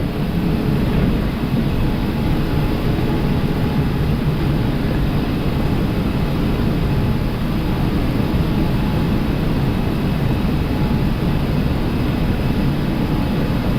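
Steady flight-deck noise inside an Airbus A380 cockpit: a constant rumble of engines and airflow with a few faint steady tones.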